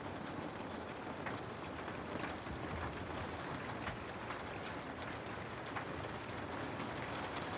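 Steady rain falling, an even hiss with scattered small drop ticks, as of rain on a window.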